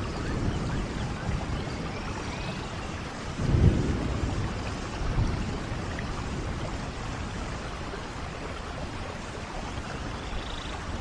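Steady rain, with a low rumble of thunder swelling about three and a half seconds in and a smaller one soon after.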